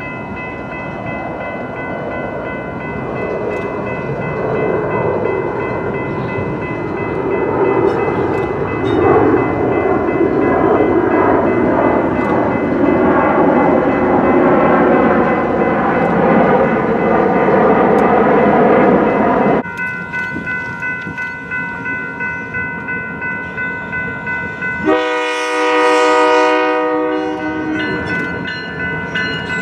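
Freight train cars rolling past on the rails, a steady rumble that grows louder and then cuts off suddenly. An approaching Iowa Interstate diesel locomotive then sounds its horn in one blast of about two seconds, and a second blast begins near the end.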